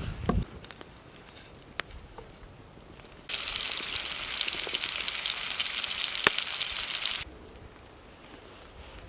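Food frying in a pan: a loud, steady sizzle that starts abruptly a few seconds in and cuts off about four seconds later, among faint clicks and rustles.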